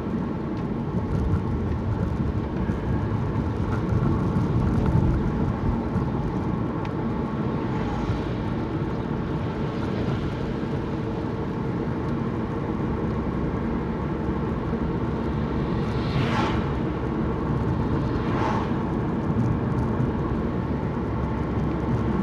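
Steady road and engine noise heard from inside a moving car, with two brief whooshes about two seconds apart in the last third.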